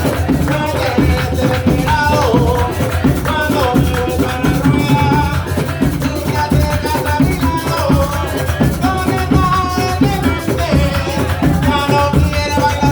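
Drum music with maracas and singing voices, the drums and shakers keeping a steady, dense beat under a sung melody.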